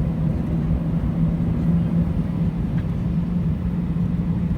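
Airbus A320 aircraft noise: a steady low rumble with a constant, unchanging hum.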